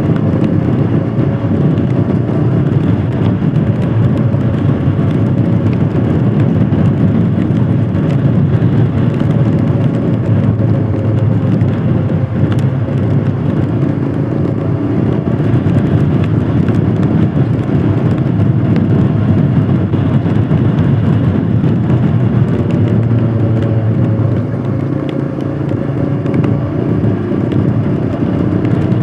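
Royal Enfield Scram 411's single-cylinder engine running while the motorcycle is ridden at a fairly steady speed, easing off briefly near the end.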